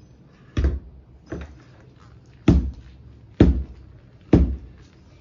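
Five heavy thuds about a second apart, blows striking the partly dismantled coffee maker.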